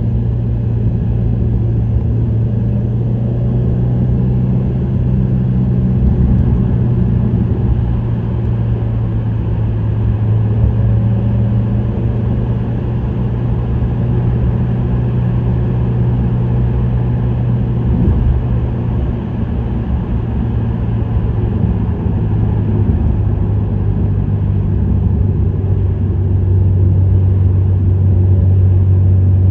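Subaru WRX STI (VAB) turbocharged EJ20 flat-four breathing through an STI Performance muffler, cruising at a steady speed: a steady low exhaust drone over road noise, its pitch dropping slightly near the end.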